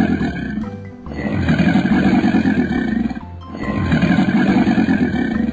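Animated crocodile's call sound effect: a long, rough call ending about a second in, then two more, each lasting nearly two seconds, over background music.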